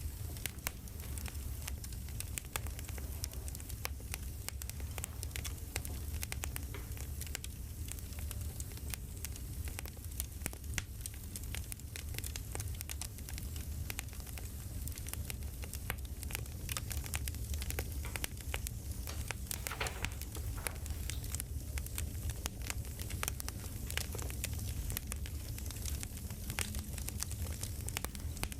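Campfire crackling: a steady stream of small pops and snaps over a low rumble.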